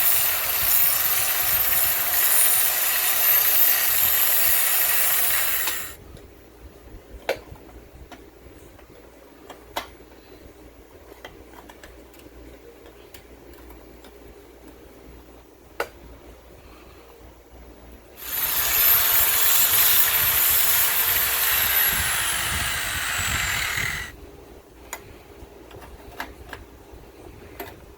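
Handheld electric power tool, most like an angle grinder, run on metal in two bursts of several seconds each with a high whine; on the second it is let off and winds down with falling pitch. Scattered light clicks and taps of metal handling between the runs.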